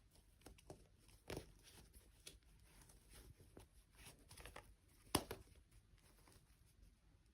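Faint handling sounds: scattered light taps, clicks and rustles, with two sharper clicks, one about a second in and a louder one about five seconds in.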